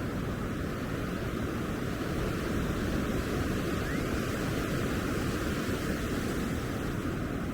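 Steady rush of ocean surf breaking on a beach, with wind rumbling on the microphone.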